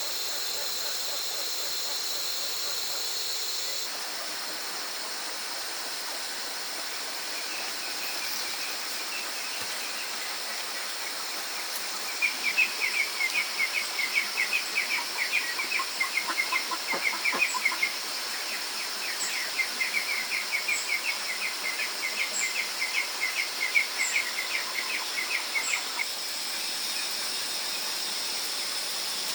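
Outdoor ambience with a steady high hiss and bird calls. A run of rapid, closely repeated chirps starts about twelve seconds in and stops a few seconds before the end.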